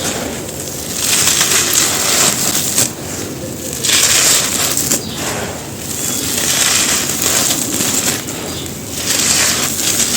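Dry, gritty red dirt being crumbled and crushed, a dense crunchy crackle that swells and eases in repeated waves.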